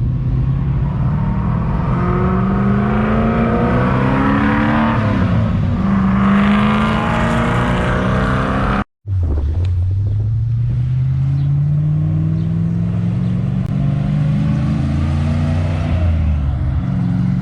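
Supercharged car accelerating hard, its engine pitch climbing, dipping briefly at a gear change about five seconds in, then climbing again. After a sudden cut about nine seconds in, a second long climb in engine pitch.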